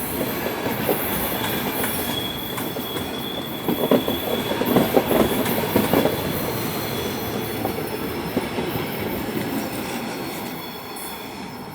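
Train rolling along the track, its wheels knocking over rail joints with a thin, high wheel squeal. A cluster of louder clacks comes about halfway through, and the sound fades slightly toward the end.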